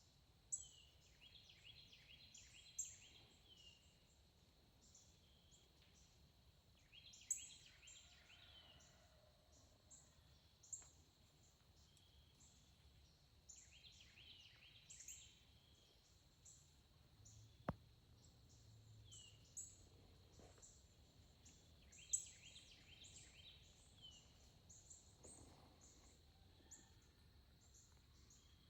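Faint woodland ambience with songbirds calling: short chirpy phrases repeat every several seconds, with scattered high chips between them. A single sharp click sounds about two-thirds of the way through.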